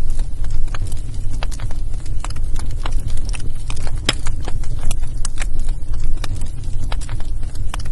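Wood fire in a fireplace crackling: irregular sharp pops and snaps over a steady low rumble, with one louder pop about four seconds in.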